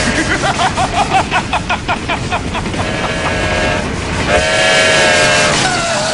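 Train whistle sound effect: a quick run of short rising toots, about four a second, then two steady whistle blasts, the second one longer.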